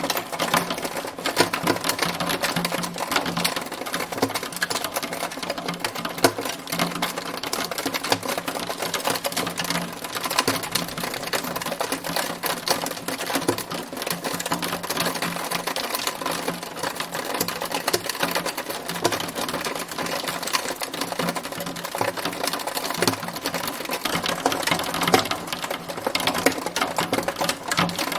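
Hail falling in a storm: a dense, steady clatter of rapid small ticks and impacts.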